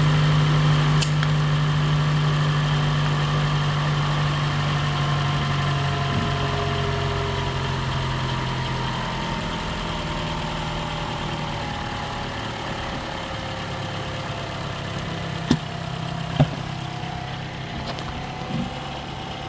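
2012 Toyota Camry engine idling steadily and growing gradually quieter, with a faint whine that slowly falls in pitch. Two short sharp clicks come near the end.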